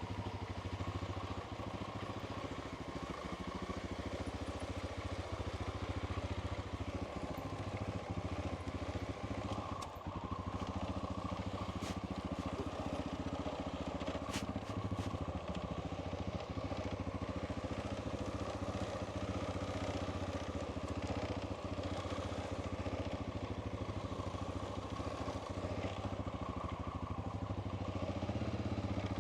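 Honda Dominator's single-cylinder four-stroke engine running steadily at low revs, with a few light clicks and rattles now and then.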